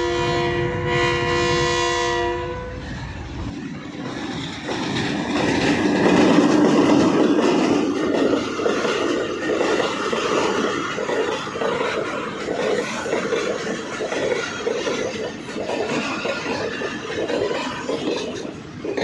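A Pakistan Railways train sounds a long horn blast, held for about two and a half seconds. After that the train runs along the track with the clatter of wheels over rail joints.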